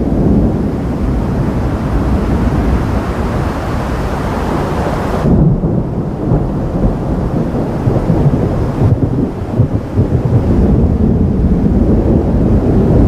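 Thunder rolling in a long, continuous low rumble; its brighter upper part drops away about five seconds in, leaving a deeper rumble.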